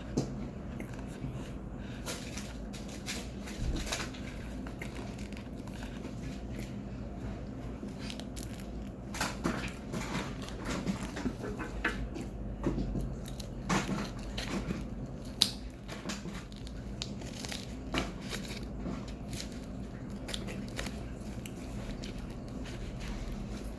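Someone chewing and crunching chunks of raw cornstarch close to the microphone: scattered crisp crackles and crunches, busiest in the middle, over a steady low hum.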